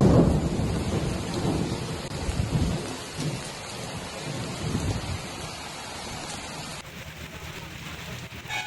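Thunder rumbling over rain: loudest right at the start, then dying away in a few low swells over about five seconds, with rain hissing underneath.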